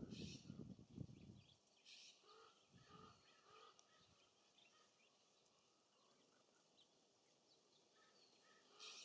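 Faint scattered chirps and short calls of small songbirds at a feeder. A low gust of wind on the microphone dies away about a second and a half in, and a few brief hissy rustles occur.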